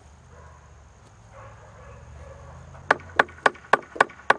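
A hammer driving a nail into wood: six quick, evenly spaced strikes, about four a second, starting about three seconds in, each with a short metallic ring.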